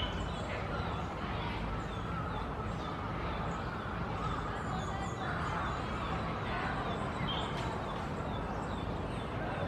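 Birds chirping, many faint short high calls repeating over a steady background noise, with a slightly louder chirp right at the start and another about seven and a half seconds in.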